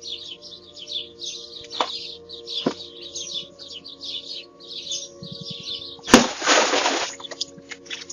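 Small birds chirping rapidly and steadily. There are two sharp clicks in the first three seconds, and a sudden loud crash about six seconds in that dies away within a second.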